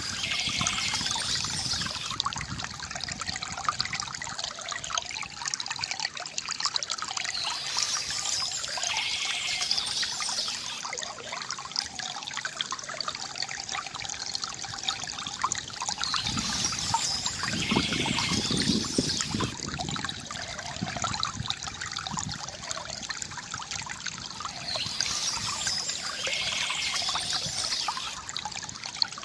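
Water trickling and splashing steadily from a bamboo fountain, with a brighter swell in the sound about every nine seconds.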